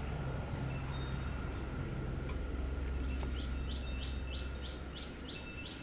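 Birds chirping, with one bird repeating a short high chirp about three times a second from a little past halfway. A low steady hum runs underneath.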